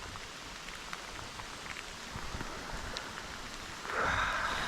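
Rain falling, a steady hiss dotted with the small ticks of single drops. About four seconds in, a louder rushing hiss rises over it.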